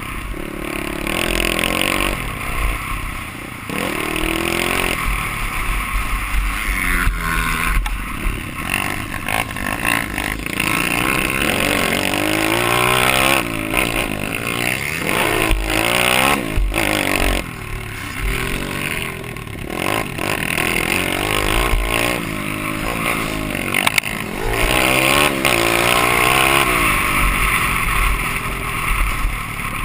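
Off-road motorcycle engine revving up and dropping back again and again as it is ridden hard through the gears, with wind rumbling on the microphone.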